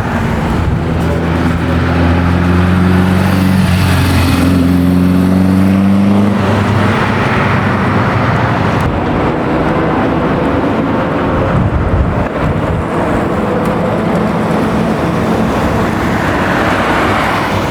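Classic car engine running loud, its pitch climbing over the first few seconds as it accelerates, then a steady dense engine and road noise.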